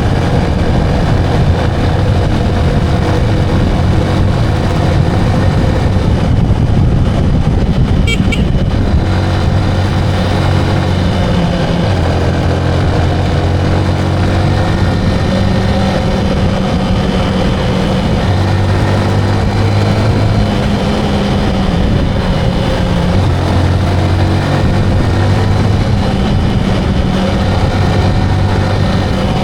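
Motorcycle engine running under way, with steady road and wind noise and shifting engine hum. A brief high beep comes about eight seconds in.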